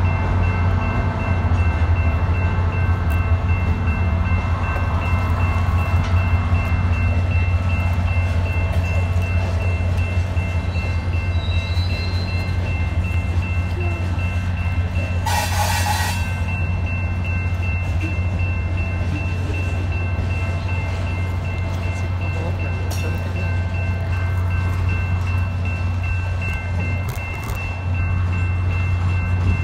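Long mixed freight train of tank cars, covered hoppers and boxcars rolling past, a steady rumble of wheels on rail, with a brief burst of hiss about halfway through.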